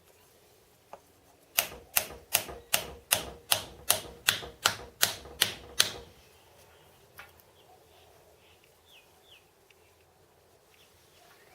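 A hammer tapping a pin home into a part of a shop-made fly cutter: about a dozen sharp, even blows, roughly three a second, stopping after about four seconds.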